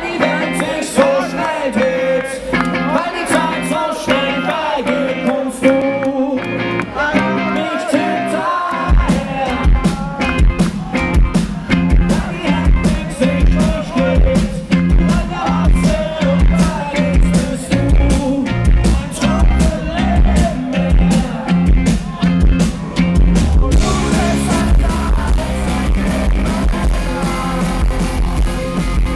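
Live rock band playing with a sung melody. Bass and drums come in about a third of the way through, and the band gets fuller and brighter near the end.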